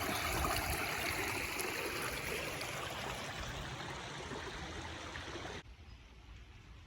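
Small stream running, a steady rush of water that slowly fades and then drops off abruptly about five and a half seconds in.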